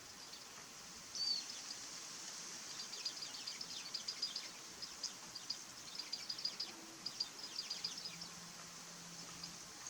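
Japanese white-eyes making rapid runs of short, high chirps and ticks, with one louder call a little over a second in, typical of their agitated calling.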